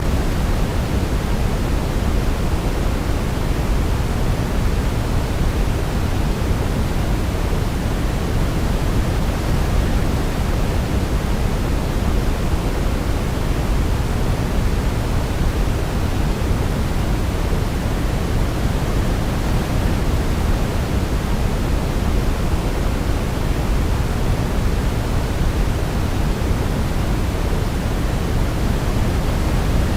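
Steady sleep-aid noise, a constant hiss weighted toward the low end like pink noise. It does not change at any point, and no melody stands out above it.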